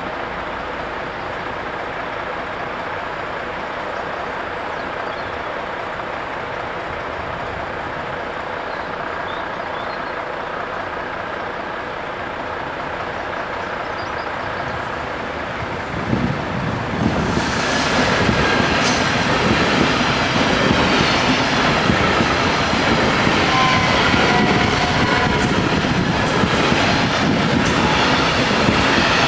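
Steady background noise, then about 16 seconds in a Belgian electric passenger train arrives and runs past over the level crossing. It gets louder, with sharp wheel clicks over the rail joints and crossing and a faint squeal from the wheels.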